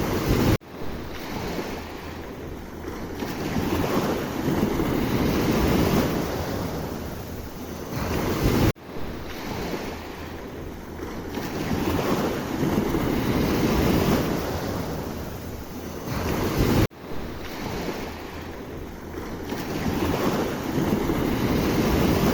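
Sea waves breaking and washing in, the surf swelling and fading in slow cycles, with wind on the microphone. The sound cuts out abruptly for an instant three times, about every eight seconds.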